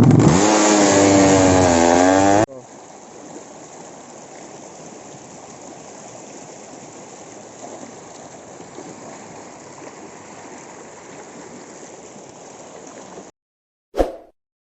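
Tuned motorcycle race engine revving, its pitch climbing and wavering, cut off abruptly about two and a half seconds in; a steady low rushing noise follows, then stops near the end.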